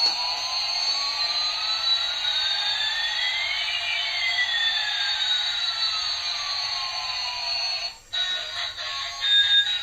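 Electronic sound effect: a steady hiss with one tone sweeping up and another sweeping down, crossing midway. It cuts off suddenly about eight seconds in, and music follows.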